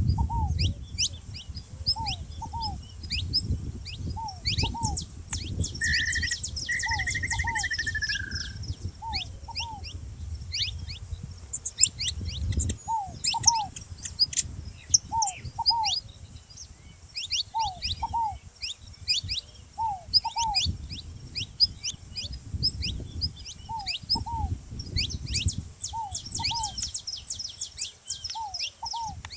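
Saffron finches giving quick, high chirps in a busy stream, while a ground dove repeats a short two-note coo about every two seconds. A buzzy, trilled call is heard briefly around a quarter of the way in.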